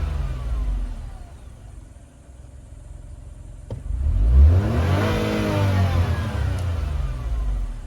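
Nissan BR06 660 cc three-cylinder engine being revved by hand: it drops back from a rev to a quieter idle, a sharp click sounds, then it is revved up again about four seconds in, held up for a few seconds, and falls back near the end.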